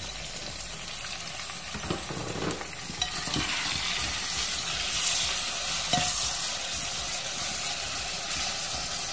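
Steady sizzle of frying in hot oil, as aubergine pieces fry in a karahi and chopped onion and tomato fry in a pot. A metal spoon stirring the onion and tomato knocks and scrapes against the metal pot several times.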